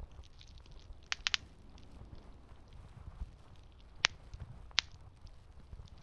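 Campfire crackling: wood popping in sharp cracks, a quick run of three about a second in and two louder single pops around four and five seconds in, over a low steady rumble.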